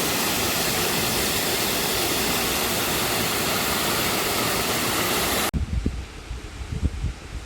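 Waterfall: a loud, steady rush of falling water. It cuts off suddenly about five and a half seconds in, giving way to quieter low thumps and rustling.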